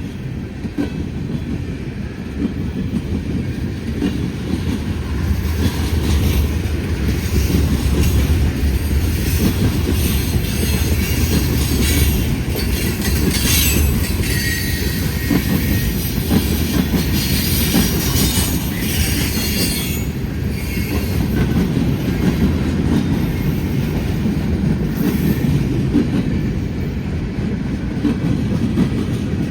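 A long freight train rolling past: a steady rumble of cars and wheels on the rails, with a high-pitched hiss and squeal of wheels that builds through the middle of the passage.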